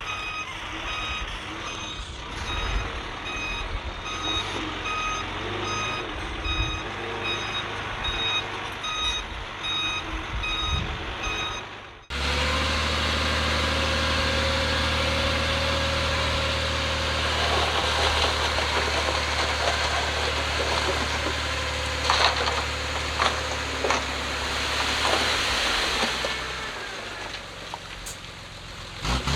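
A heavy machine's reversing alarm beeping over and over above diesel engine noise. About twelve seconds in, the sound cuts abruptly to a steady diesel engine drone with a few sharp metallic clanks, which eases off near the end.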